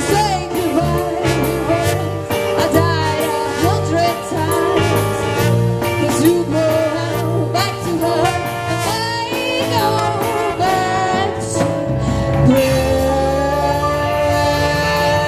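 A rock-and-roll band playing: drums, bass and a wavering lead melody line over a steady beat.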